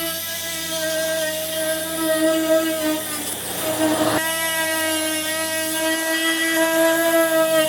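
A motor running with a steady, high whine. A little past halfway the whine drops under a rush of hiss for about a second, then comes back abruptly.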